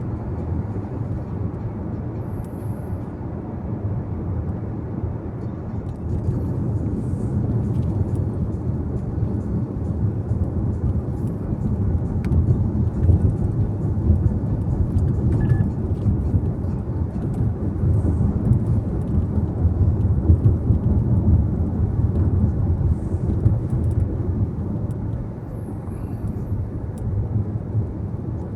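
Car driving on the road: a steady low rumble of tyre and engine noise, getting a little louder about six seconds in and easing slightly near the end.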